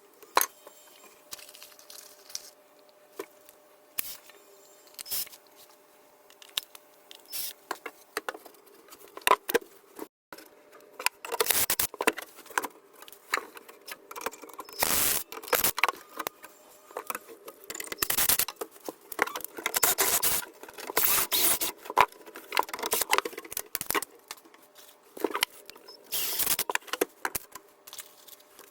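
Hand work on a cabinet: irregular clicks, knocks and clattering, with louder bursts of scraping or tearing from about a third of the way in.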